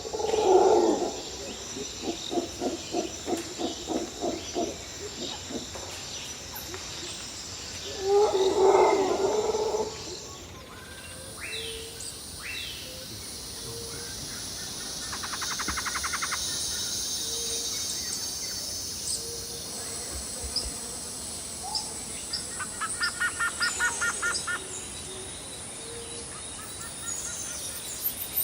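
Birds chirping and trilling over a steady high insect drone from the surrounding forest. In the first ten seconds louder, rough pulsing sounds of an unclear source stand over the birdsong.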